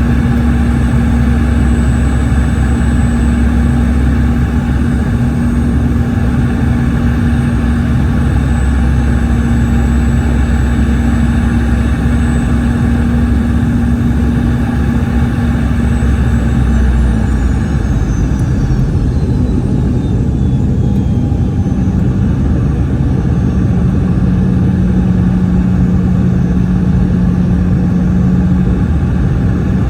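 Boeing 717's rear-mounted Rolls-Royce BR715 turbofans heard inside the cabin: a steady drone with a high whine. About 17 seconds in the engine pitch drops and the whine glides down over a few seconds as thrust is reduced.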